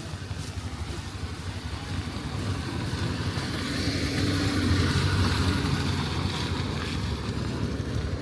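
A motor vehicle passing on a wet road, its rumble swelling about halfway through and then easing, over a steady hiss of rain.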